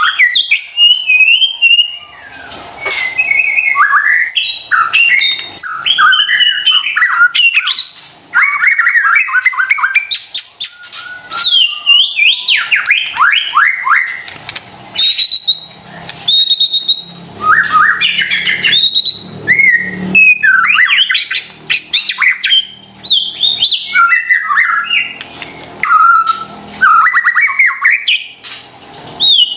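White-rumped shama singing a fast, varied string of loud whistles, rising sweeps and chattering notes, with only brief pauses between phrases.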